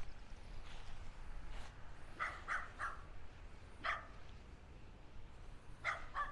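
A dog barking in short barks: three quick barks about two seconds in, one near four seconds, and two more near the end.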